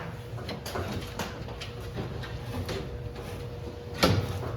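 Scuffs and light knocks of a person climbing out of a race car's cockpit past a close steering column, with a louder thump about four seconds in.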